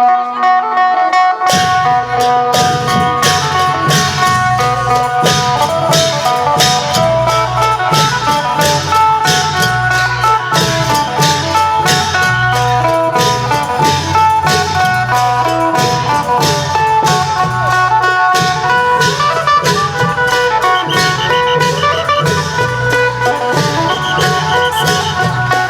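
Isan phin (plucked lute) playing a lively melody, joined about a second and a half in by a klong yao long-drum band with dense, even percussion strokes.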